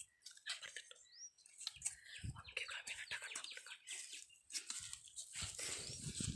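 Faint bird chirps, including two short rising calls, among scattered rustling and knocking sounds.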